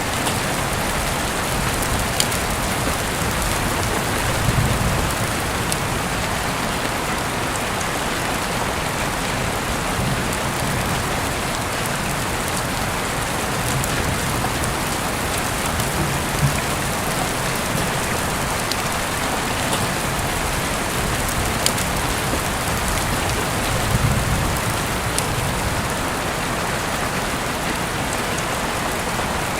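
Heavy rain falling steadily, heard through an open window, with a dense even hiss and now and then a sharper drop ticking on a hard surface. A couple of brief, slightly louder low swells come about five seconds in and again later on.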